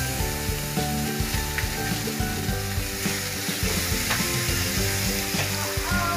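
Onion paste and whole spices sizzling as they fry in hot oil in a pan while being stirred, a steady frying sizzle with a few light clicks.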